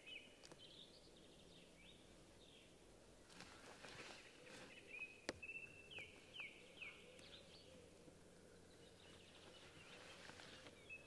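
Near silence in forest, with a bird singing faintly in short chirping phrases near the start and again around the middle. Soft rustling and one sharp click about five seconds in.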